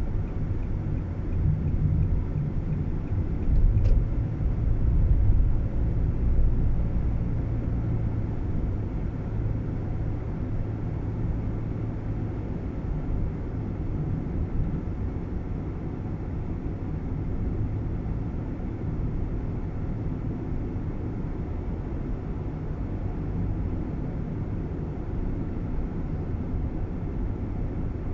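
Steady low rumble of a Nissan Roox kei car heard from inside the cabin while it is driven, loudest in the first several seconds, then even. One faint click comes about four seconds in.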